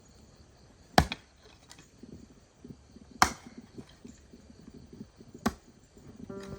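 Three sharp chopping blows on bamboo, evenly spaced a little over two seconds apart, as a bamboo bathroom is built.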